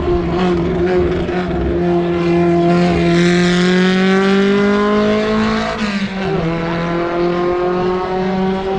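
Race car engine accelerating hard up a hillclimb course, its pitch climbing steadily, then dropping sharply on an upshift about six seconds in before climbing again.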